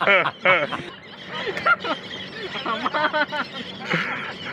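A man laughing in short, quick bursts for about the first second, then quieter, softer vocal sounds.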